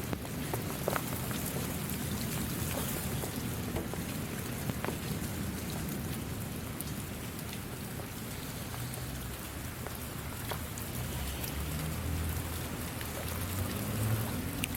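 Steady rain falling, with many individual drops ticking on a surface over a continuous hiss. A low rumble builds underneath in the second half.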